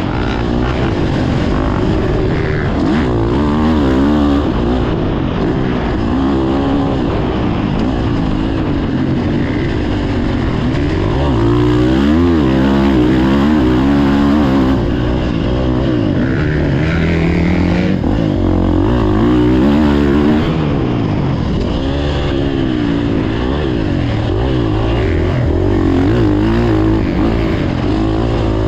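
Motocross dirt bike engines revving hard and backing off as they ride the track, their pitch rising and falling over and over, with several engines overlapping.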